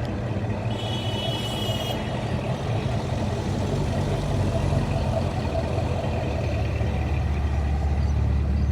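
Car engine idling, a steady low rumble that grows stronger about six and a half seconds in, with a brief high-pitched whine about a second in.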